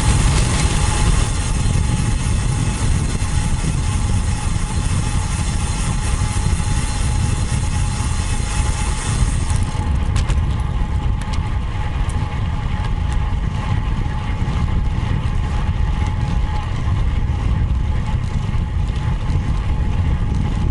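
Wind buffeting the microphone of a road bike ride camera, a steady rumble with a high hiss that drops away about halfway through.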